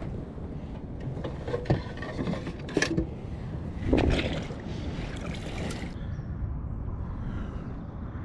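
Water splashing and sloshing around a kayak, with several sharp knocks and clicks in the middle of the stretch, over a steady low rumble.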